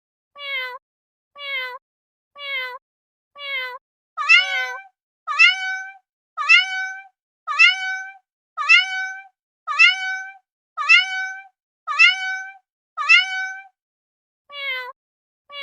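Domestic cat meowing over and over at an even pace: short, identical meows about once a second, then about four seconds in a louder, longer meow repeated nine times. After a pause of about a second the short meows start again near the end.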